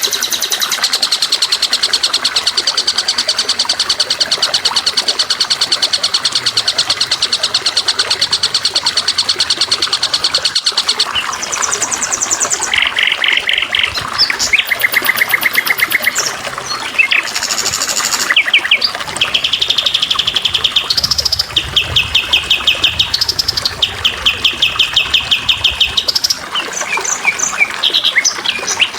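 Songbird singing in rapid trills of quickly repeated high notes: one long unbroken trill for the first third or so, then a run of shorter trills that jump between higher and lower pitches.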